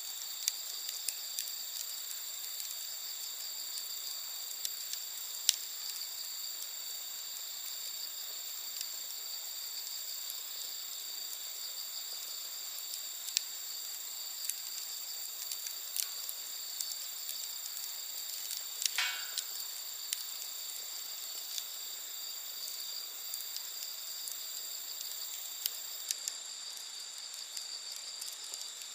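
Wood campfire crackling with scattered sharp pops, over a steady chorus of night insects singing at several high pitches. A short falling call sounds about two-thirds of the way through.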